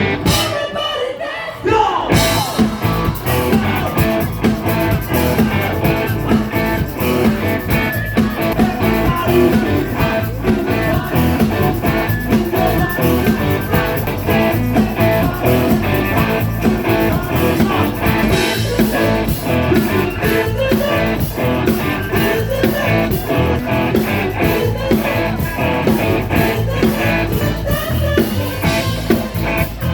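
Live rock and blues band playing with electric guitar, drums and singing.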